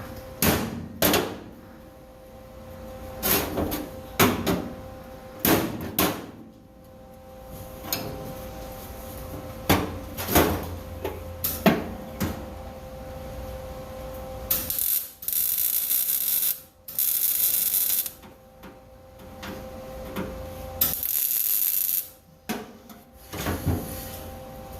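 A scatter of sharp metal knocks and clanks, then three short welding bursts of one to two seconds each, crackling and hissing: tack welds fixing a new floor pan in a truck cab. A faint steady hum runs underneath.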